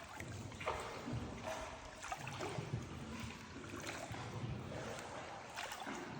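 Water sloshing and trickling around a small paddled tour boat, with scattered small splashes and knocks.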